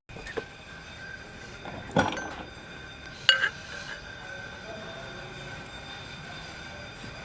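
A few separate knocks and metallic clinks. The loudest comes a little over three seconds in and rings briefly, with a faint steady high tone running underneath.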